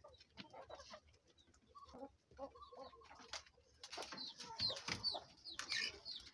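Chickens clucking, with a run of short, high calls falling in pitch from about four seconds in.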